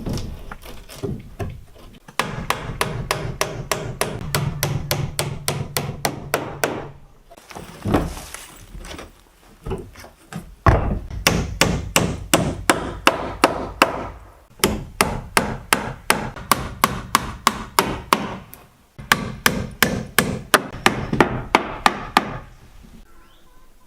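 Hammer striking wood, driving nails in quick, even runs of blows, about five a second, with short pauses between runs.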